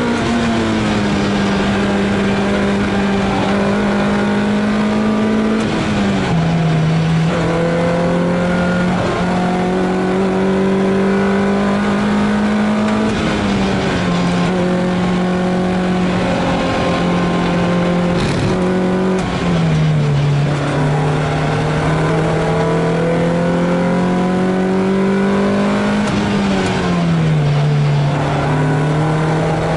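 Lotus Elise S2's Rover K-series four-cylinder engine heard from inside the cockpit, running hard at high revs on track. The pitch climbs slowly, then drops four times, about 6 to 7 seconds apart.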